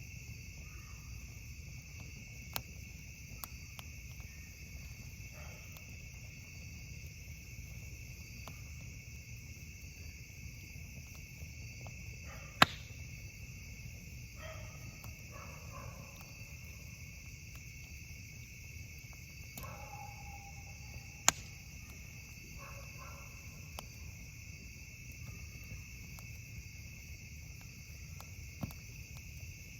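Steady high chorus of crickets at night, with a low rumble underneath and a few sharp pops from a campfire, the loudest two about 12 and 21 seconds in.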